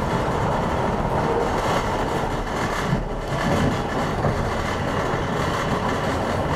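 Docklands Light Railway train running along the track, heard from inside the carriage: a steady running noise that eases briefly about three seconds in.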